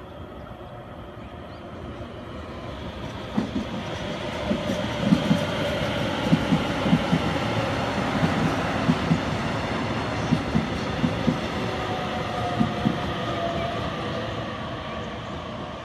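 Passenger train passing through a station at speed: a rising rumble of wheels on rail, with a run of clacks, often in pairs, as the wheels cross rail joints. It eases off near the end as the train moves away.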